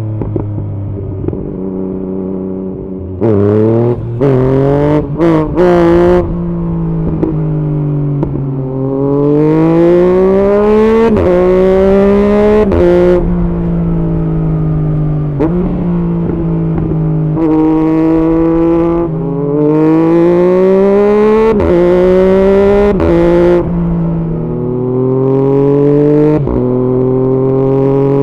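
Yamaha MT-09's three-cylinder engine breathing through an aftermarket Arrow exhaust, pulling hard. Its pitch climbs and then drops sharply again and again as it shifts up through the gears, with short sharp cracks at several of the shifts.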